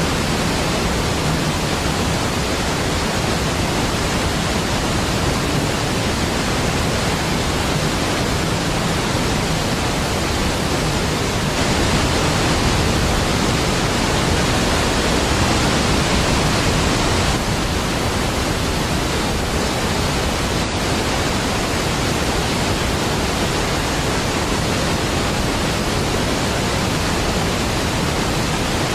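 A large waterfall pouring in a deep, steady rush of falling water that swells a little for several seconds midway.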